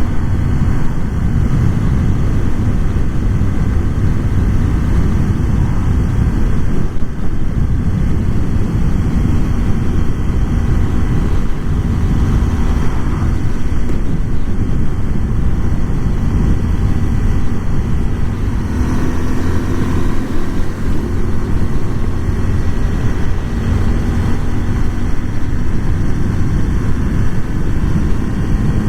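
Honda Super Cub 125's 125 cc single-cylinder engine running under way, its pitch climbing slowly in the second half, over a heavy low rumble of wind on the microphone.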